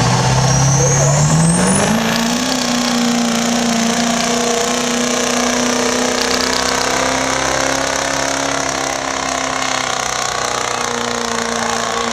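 Duramax 6.6 L V8 turbodiesel pickup at full throttle pulling a sled. The engine's pitch climbs over the first two seconds, then holds high and steady, easing slightly near the end. A high whistle rises over the first two seconds.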